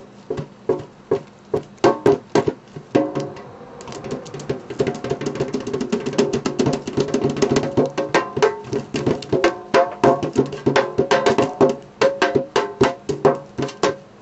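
A springform pan, still in its wrapping, tapped as a percussion instrument in a run of quick strikes, each with a short pitched ring. In the middle the taps speed up into a dense, fast roll, then go back to separate strikes.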